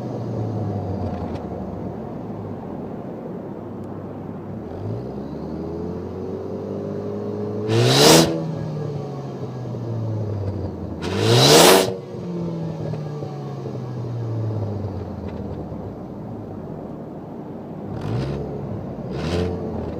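2013 Ford Focus ST's turbocharged four-cylinder EcoBoost engine idling with throttle blips. It is revved hard twice, about 8 and 11.5 seconds in, each time dropping slowly back to idle, with a few smaller blips near the end.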